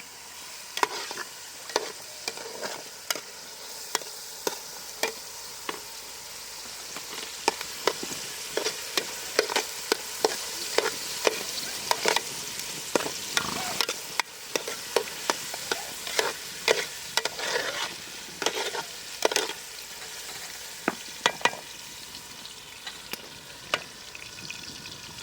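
Food frying in a pan: a steady sizzle with frequent sharp clicks and scrapes of a utensil stirring against the pan.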